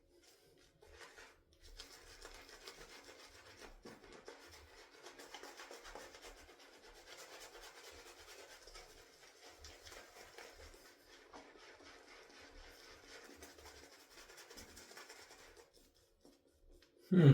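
Shaving brush working dense shaving-soap lather: a soft, steady rubbing swish that goes on for about fourteen seconds, then stops. Near the end comes a brief, louder sound with a falling pitch.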